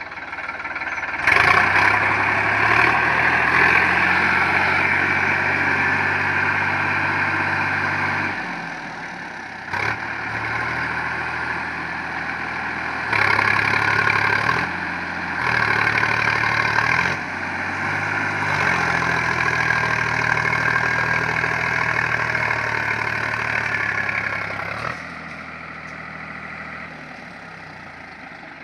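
Sonalika 745 DI tractor's diesel engine working hard pulling a gravel-loaded trolley. The revs rise about a second in, dip and pick up again several times, and settle back to a lower, steadier speed near the end.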